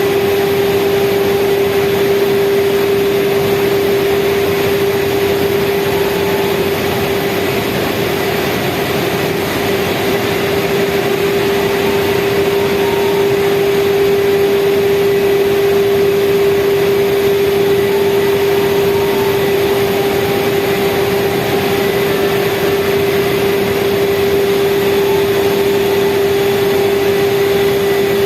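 Speedboat engine running steadily at speed: a constant drone with one unchanging tone over a loud rushing noise.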